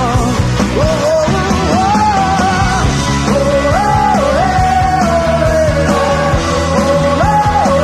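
Live rock band playing loudly, with a lead melody of long held notes stepping up and down over drums and bass.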